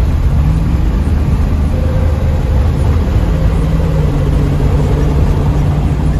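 1984 Pontiac Trans Am's V8 engine pulling hard under acceleration at highway speed, heard from inside the cabin over a steady road drone; the engine note steps up in pitch about three seconds in.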